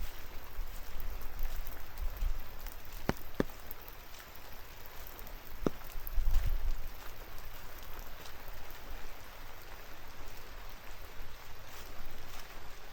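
Steady rain in a cedar forest, with a few sharp drops striking close by and some low rumbles.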